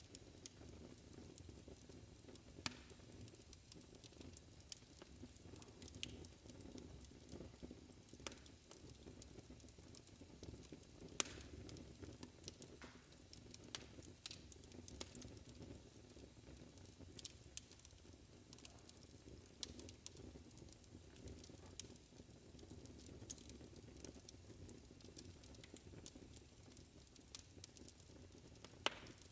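A wood fire crackling softly in a fireplace: a steady low rumble of the flames with irregular small pops and snaps, a few of them sharper, such as one a little under three seconds in and one about eleven seconds in.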